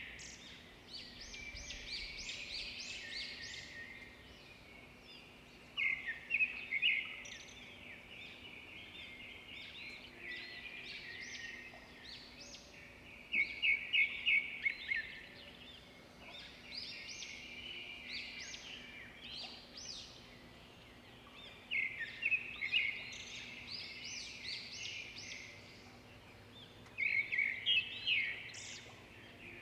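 Zebra finches singing and chattering, with a loud burst of song about every six to eight seconds and quieter calls in between. A faint steady hum lies underneath.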